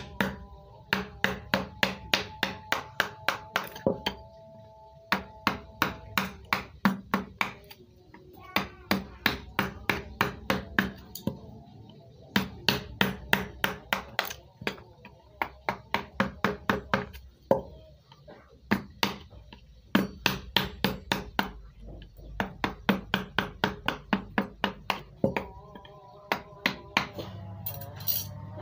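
Mallet tapping a carving chisel into wood: quick, even strikes at about four a second, in runs broken by short pauses.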